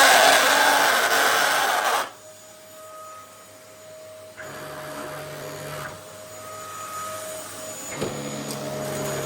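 Dyson DC07 Allergy vacuum cleaner running. For about two seconds it gives a loud, rattling rush of suction. Then it suddenly drops much quieter to a steady whine, which steps up in loudness a couple of times.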